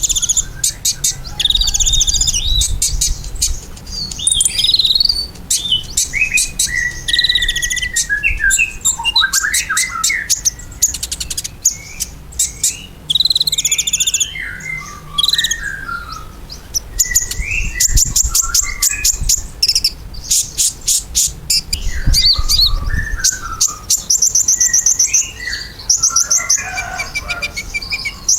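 A male kolibri ninja sunbird singing without pause: rapid high-pitched trills broken up by quick twittering, chirping phrases. This is lure song, played to get a caged bird of the same kind to sing back.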